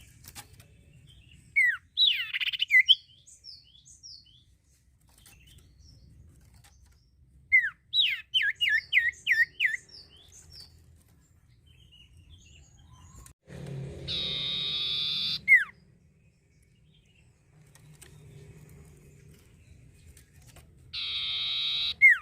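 Common iora (cipoh) singing in separate phrases. There are short downward-slurred whistles, then a quick run of about six sharp descending notes, and twice a long buzzy note lasting one to two seconds.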